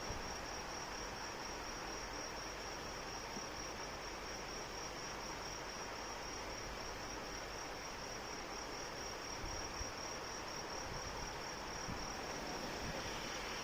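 Steady rain hiss with a cricket chirping continuously in a high, evenly pulsing trill.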